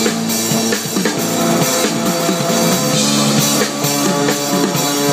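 A band playing rock music, with a drum kit keeping a steady beat under guitar.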